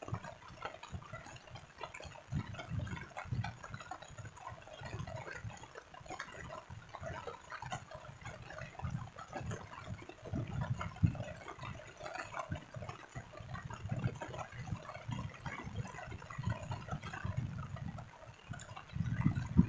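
Water splashing and trickling steadily, with a dense patter of small drips and irregular low surges.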